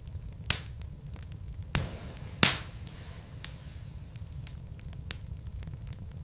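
Wood fire in a fireplace crackling over a low, steady rumble of flame, with three sharp pops in the first half. The last pop is the loudest.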